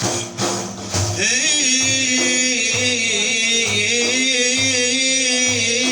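Mawlid chanting with frame drums: hand-struck drums beat a steady pulse about twice a second, and from about a second in a male voice holds one long, wavering sung note over them.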